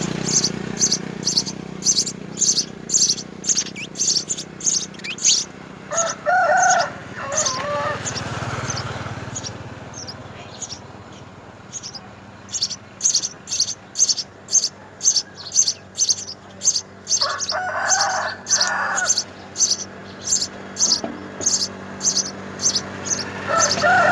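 House sparrows chirping: a long run of short, high chirps, two to three a second, that thins out for a few seconds near the middle. Twice a lower, wavering call of a second or two cuts in, about a quarter and three-quarters of the way through.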